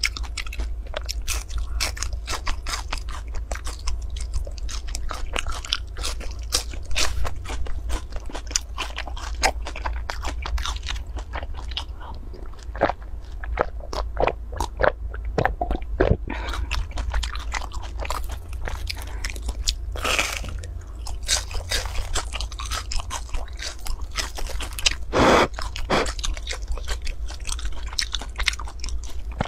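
A person biting, crunching and chewing crispy fried cakes with a stretchy, chewy filling: a dense run of crisp crunches and wet chewing clicks, with a steady low hum underneath.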